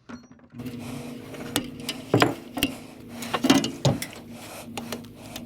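Scrap metal being worked by hand: a string of sharp metallic knocks and clinks, several of them loud, over a steady mechanical hum that starts about half a second in.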